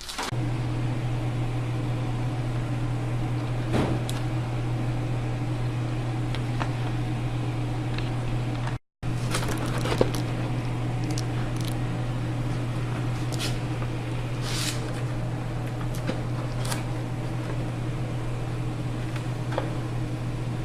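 A steady low hum with a few faint clicks, cut off for an instant about nine seconds in.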